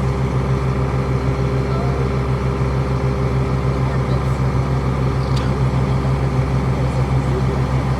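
Truck engine idling steadily, a constant low rhythmic running with no change in speed.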